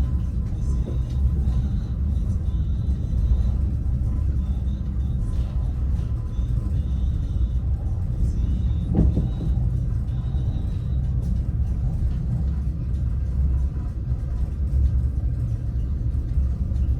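Passenger train heard from inside the carriage while under way: a steady low rumble of the running gear, with a few sharp knocks of the wheels over the rails.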